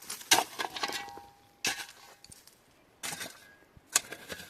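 Dishes and metal utensils clinking and knocking together, a string of sharp knocks, some ringing briefly.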